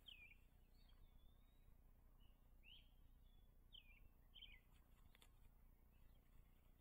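Faint bird calls over a low, steady background noise: short, downward-slurred chirps that repeat every second or so. A faint click comes about five seconds in.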